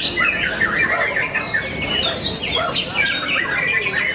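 Many caged competition songbirds singing at once: a dense, unbroken overlap of quick chirps, whistled glides and trills.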